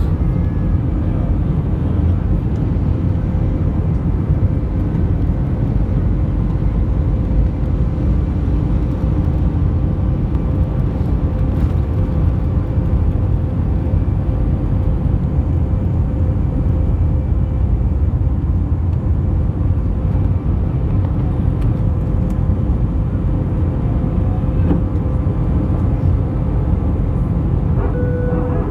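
Airbus A319 jet engines at takeoff power, heard from inside the passenger cabin: a loud, steady low rumble with a faint steady hum over it.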